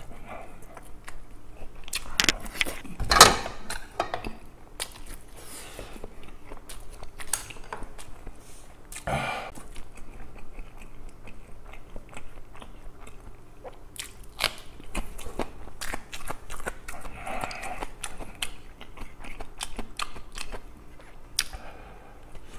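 Close-miked mouth sounds of eating: biting and chewing fried breaded chicken cutlet and raw green chili peppers, with many small wet clicks and crunches. The loudest is a crunchy bite about three seconds in.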